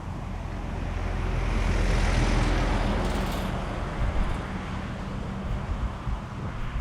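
A car passing by, its noise swelling to a peak about two seconds in and then fading, with wind buffeting the microphone throughout.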